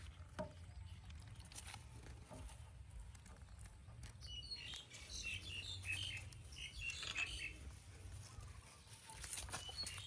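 A flurry of short, high-pitched chirping calls, bunched together in the middle, over a low steady hum and a few light clicks.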